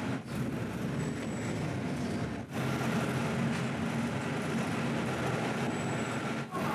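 Diesel railcar running along the line, heard from inside: a steady engine drone under the rolling noise of the wheels on the track. The sound drops out briefly about a quarter second in, again about two and a half seconds in, and once more near the end.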